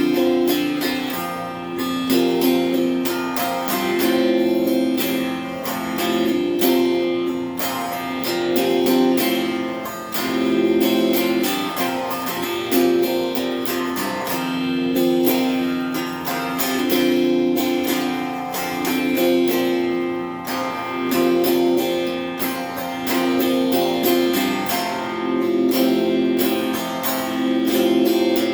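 Donner Q1 HSS Strat-style electric guitar strumming chords through a small amp, cycling through a repeating progression about every two seconds.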